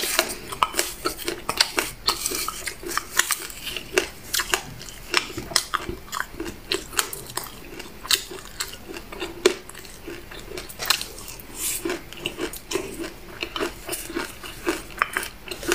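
Close-miked chewing of a mouthful of black sesame seeds and buckwheat, a steady run of many small, sharp, irregular crunches.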